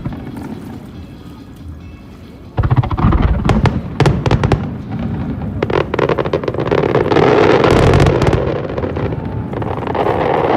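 Fireworks going off: a sudden loud bang about two and a half seconds in, then a quick run of bangs and crackles that merge into a dense, continuous crackle.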